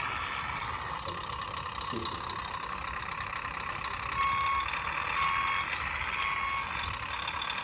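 Three short electronic beeps at one steady pitch, evenly spaced about a second apart, over a steady hiss.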